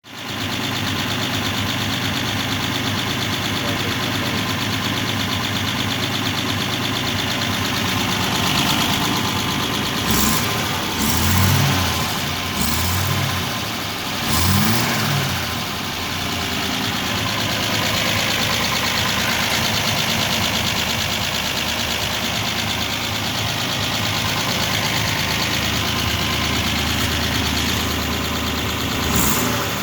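1952 Rover P4 75's 2.1-litre inlet-over-exhaust straight-six engine idling steadily, revved briefly three times about a third of the way in and once more near the end.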